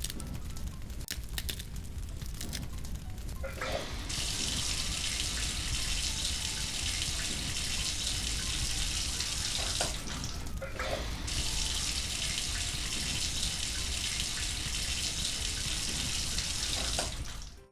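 Water jet hissing out of a small DIY pump's nozzle in two long spells, with a short break about ten seconds in, over a steady low rumble.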